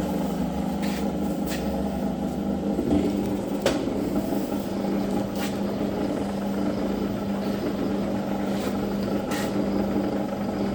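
Zocca 500 shaper running under power, a steady mechanical hum with a few light clicks from the machine.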